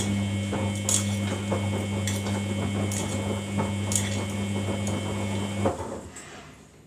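Samsung washing machine running in service mode: a steady electric motor or pump hum with irregular light clicks and knocks on top, which stops suddenly near the end.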